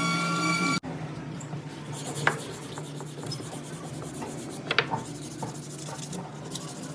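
A power tool's motor whine cuts off abruptly about a second in. Then comes steady rubbing and scraping of an abrasive on wood, broken by two sharp clicks, one about two seconds in and one near five seconds.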